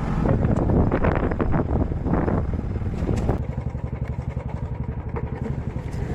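Motorcycle engine running under way, with an even pulsing beat to its sound in the second half.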